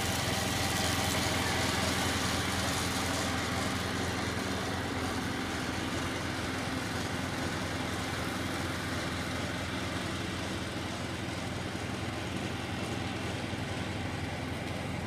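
Ford tractor engine running steadily, growing gradually quieter through the first part and then holding level.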